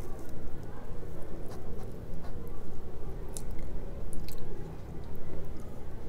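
Close-miked chewing of fried matar kachori with chana masala, with a few sharp crackles and mouth clicks scattered through it.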